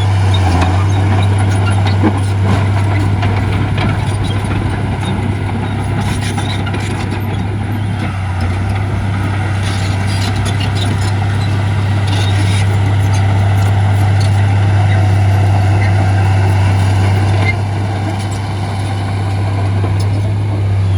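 Heavy diesel engine of earthmoving equipment running steadily with a deep, even drone that eases slightly near the end.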